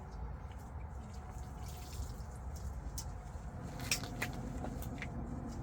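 A low steady rumble with a few short sharp ticks or drips scattered through the second half.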